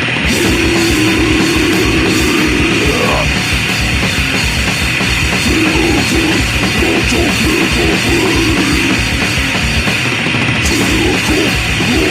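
Fast crust punk played by a full band: heavily distorted guitars and bass over rapid, pounding drums, from a raw demo recording.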